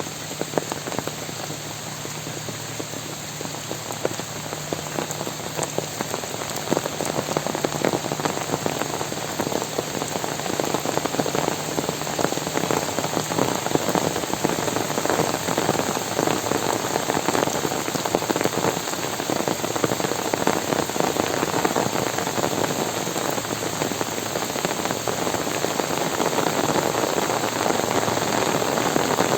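Heavy rain falling, a dense patter of countless drops striking surfaces, growing louder about six seconds in.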